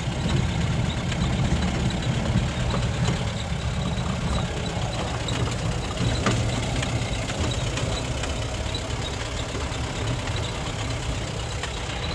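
Mahindra Bolero Pik-Up's common-rail diesel engine running steadily, with a dense low drone. It is running again now that its blown fuel pump relay and 30 A fuse have been replaced.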